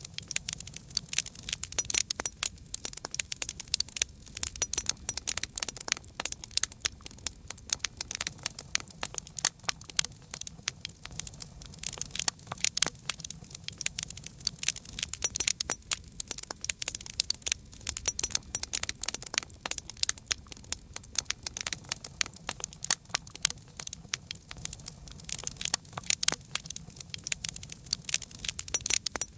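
Campfire crackling: a dense, irregular run of small pops and snaps, with a faint low rumble underneath.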